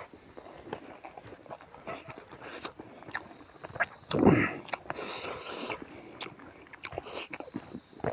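Eating sounds: chewing and wet mouth clicks, with fingers working cooked rice on a banana leaf. About four seconds in there is one louder, short mouth sound that falls in pitch.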